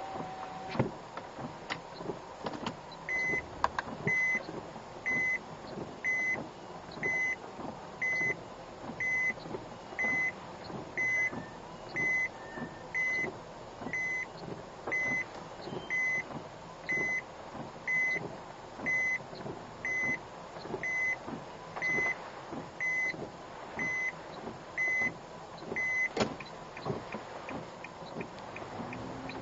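A car's in-cabin electronic warning beep sounding about once a second for over twenty seconds, then stopping with a sharp click near the end, over steady car noise with faint ticking.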